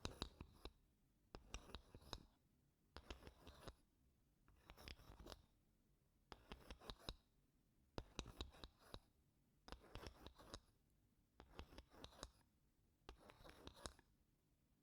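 Wooden spoon scraping across wooden blocks in slow, gentle strokes, about nine short scratchy strokes evenly spaced roughly a second and a half apart.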